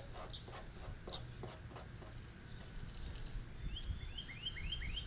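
Outdoor birdsong: scattered high chirps, then a fast trill of repeated down-slurred notes, about six a second, starting in the last second and a half. A few light clicks in the first two seconds, over a low rumble of background noise.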